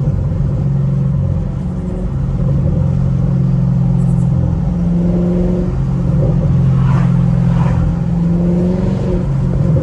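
Straight-piped Chevrolet Camaro SS V8 exhaust droning at steady revs while the car cruises, heard from the cabin, with two faint short pops about seven seconds in.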